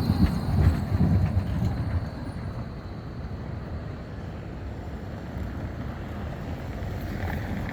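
Škoda 52T ForCity Alpha tram on the move: a low rumble, louder for the first two seconds, then settling to a steadier, quieter run.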